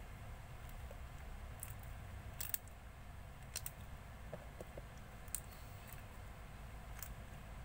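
Slime being handled, stretched and pressed by hand, giving a few scattered sharp clicks and pops over a low background hum.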